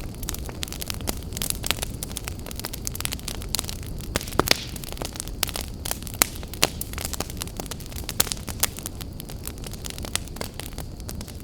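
Wood fire burning in an open fireplace, crackling with many irregular pops and snaps over a steady low rumble of flame. A louder pop comes about four and a half seconds in.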